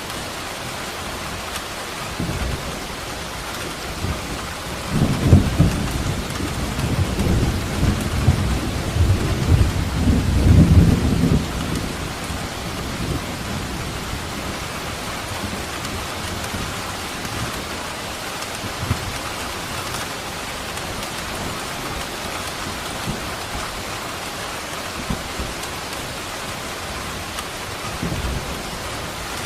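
Steady heavy rain falling, with a long roll of thunder rumbling low from about five seconds in to about twelve seconds, and fainter rumbles near the start and the end.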